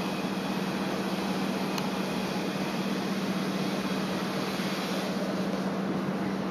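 Strong typhoon wind making a steady rushing noise, with a steady low hum under it.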